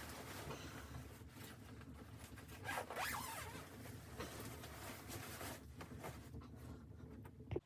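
A zipper being pulled in several long, scratchy runs, loudest about three seconds in, then cut off abruptly near the end.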